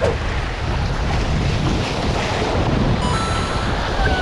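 Strong wind buffeting the microphone, with the wash of surf against the shore underneath.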